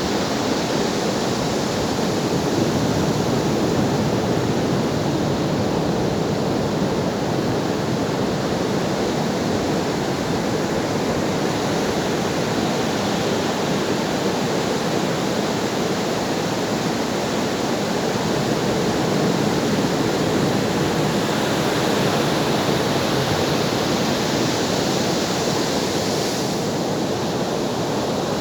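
Ocean surf: a steady, continuous wash of breaking waves, with no single crash standing out.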